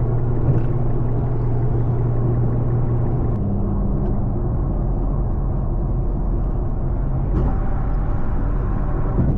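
Inside an Infiniti Q50 cruising at highway speed: steady engine drone under road and wind rumble. About three and a half seconds in, the engine note steps up in pitch.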